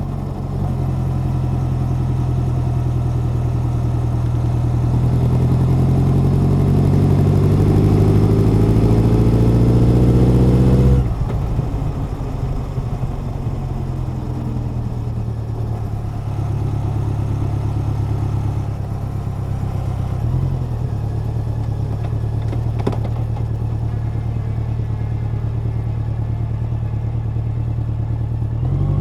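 Honda CB1100's air-cooled inline-four engine and exhaust under way: the note climbs steadily in pitch and loudness for about eleven seconds as it pulls through the revs, then drops suddenly as the throttle is closed, and settles into a steady cruising note with a brief change about two-thirds of the way through.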